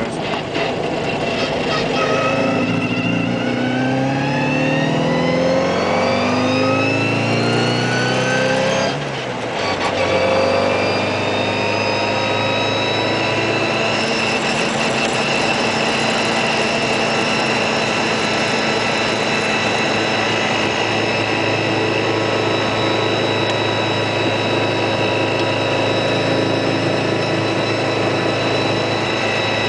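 In-cabin sound of a Jem KII's 998 cc Mini Cooper four-cylinder engine, with a Weber 40 carburettor, pulling through a gear with steadily rising revs. About nine seconds in the revs drop sharply at a gear change, climb a little, then hold steady at cruising speed.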